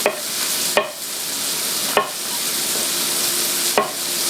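Garlic and mushrooms frying in butter and olive oil in a sauté pan, a steady sizzle. Four short sharp knocks sound over it at uneven intervals.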